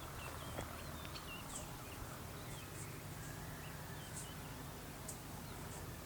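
Birds chirping faintly: scattered short chirps and brief high chips, over a low steady hum.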